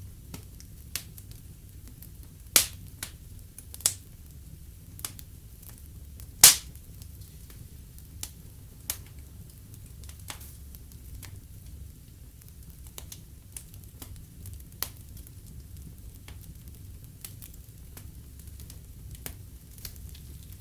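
Wood fire crackling in a fireplace: irregular sharp pops and snaps over a low steady rumble, the loudest pop about six seconds in.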